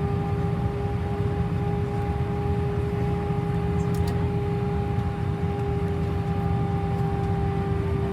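Airbus A319 jet engines and airflow heard inside the passenger cabin: a steady drone over a low rumble, with a few constant humming tones.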